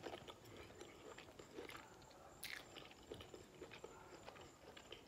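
Faint chewing close to the microphone: a person eating shrimp in a creamy pasta sauce, with soft wet mouth clicks and small smacks.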